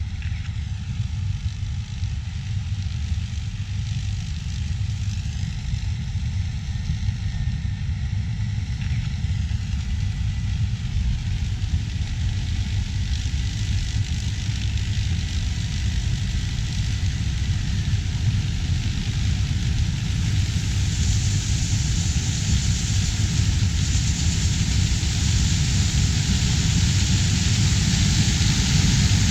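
Heavy harvest machinery running: a steady low engine rumble that grows gradually louder, with a hiss that strengthens about twenty seconds in.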